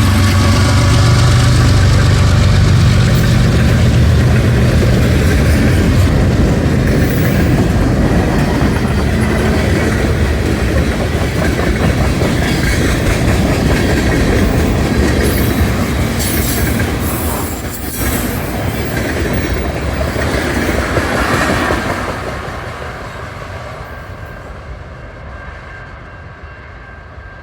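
A CN diesel freight train passing close by: the locomotive's engine is loud at first, then the cars roll past with a clickety-clack of wheels over the rail joints. The sound fades away over the last few seconds.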